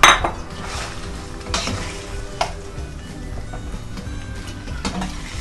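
Chicken pieces sizzling in hot oil in a kadai as they are stirred, with a sharp knock against the pan at the start and a few fainter knocks after it. Faint background music underneath.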